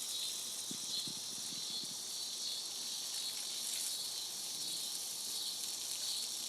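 Insects chirping steadily in a continuous high-pitched drone, with a few faint soft knocks in the first two seconds.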